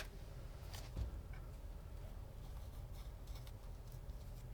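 Faint handling sounds while fan wiring is being marked: a light knock about a second in and a few soft ticks.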